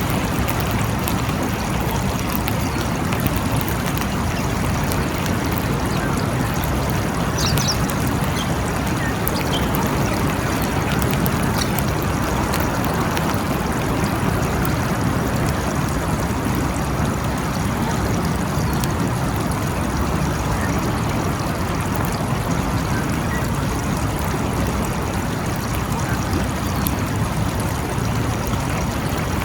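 Steady rain falling in a continuous even hiss, with a few faint high chirps about seven seconds in.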